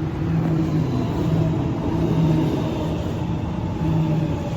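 A train running close by: a steady rumble with a low hum that swells and fades every second or so.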